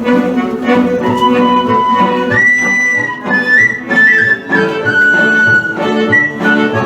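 Instrumental Vlach folk medley: a flute melody with long held notes that bend in pitch, over a steady string accompaniment.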